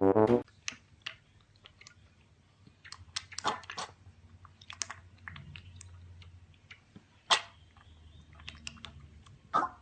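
Chewing and crunching: a scatter of sharp, irregular crunches and clicks, a cluster of them about three to four seconds in and one louder crunch past the seven-second mark. A last bit of music sounds right at the start.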